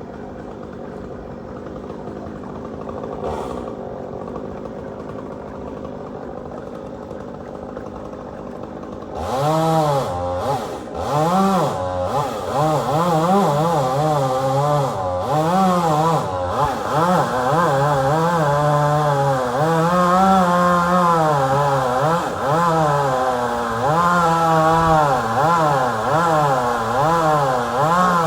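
Engine idling low for the first nine seconds or so. Then a gasoline chainsaw opens up and runs loud, its pitch rising and falling again and again as it cuts into the oak.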